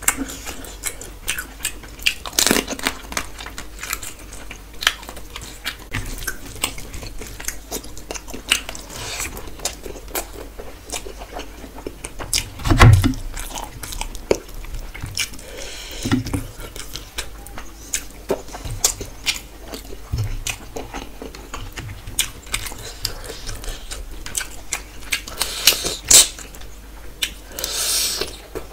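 Close-up chewing and biting of someone eating rice and curry by hand, with many short wet mouth clicks and some crunching, and one heavier low thump about halfway through.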